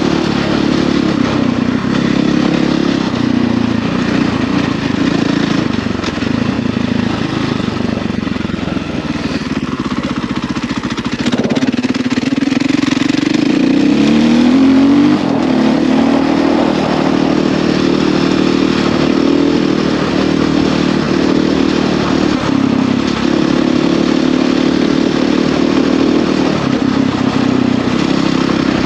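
Husqvarna FE450 enduro dirt bike's single-cylinder four-stroke engine running under way, its revs rising and falling, with one marked climb in revs about halfway through.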